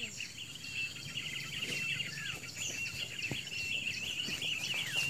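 Small birds chirping, a dense run of short high calls and whistles repeated several times a second, over a steady high insect buzz.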